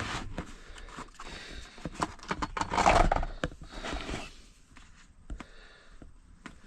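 Close handling noise of objects being picked up and moved: a run of clicks, knocks and scrapes, loudest in a rustling scrape about three seconds in, then quieter, sparser clicks.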